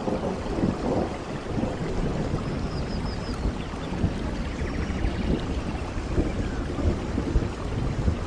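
Steady heavy rain with a deep rumble underneath, and a faint high chirping about three seconds in.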